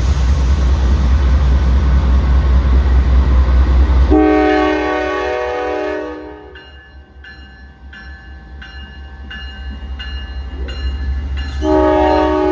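Norfolk Southern freight train pulling out: a loud diesel rumble, then a multi-chime air horn sounds about four seconds in for about two seconds. A bell rings about twice a second, and the horn sounds again near the end.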